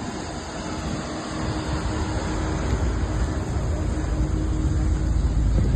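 Car driving: engine and road noise with a steady hum, slowly getting louder.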